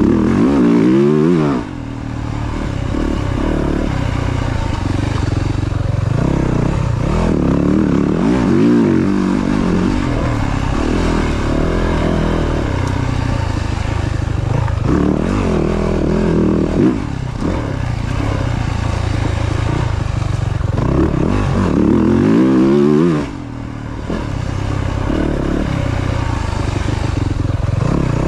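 Yamaha YZ450F four-stroke single-cylinder dirt bike engine revving up and down while riding through turns, the pitch climbing and falling again and again. The throttle is shut off sharply twice, near the start and near the end.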